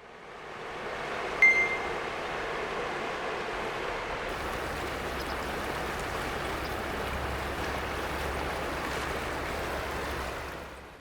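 Steady rushing of a clear, shallow river running over stones, fading in at the start and out near the end, with one short sharp click-like sound about a second and a half in.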